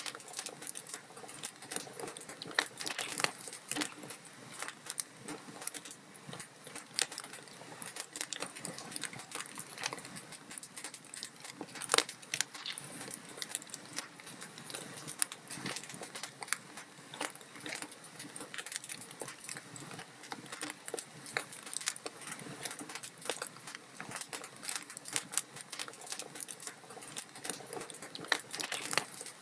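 Wood logs burning in a fireplace, crackling and popping continually, with a few louder sharp pops, the loudest about twelve seconds in.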